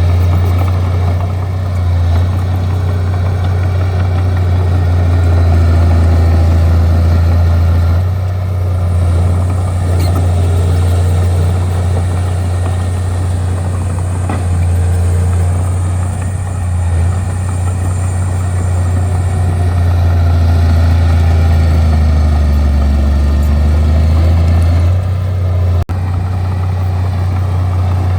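Bulldozer's diesel engine running steadily as the machine works, a strong low drone with a faint high whine over its middle stretch; near the end the sound drops out for an instant.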